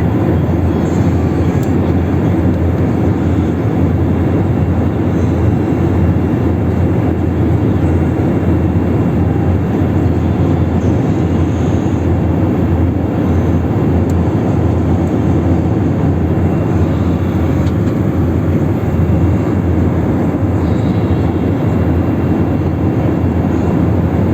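Steady, loud cabin noise of an Airbus A321 in flight: a constant low rush of engine and airflow noise with no change in pitch.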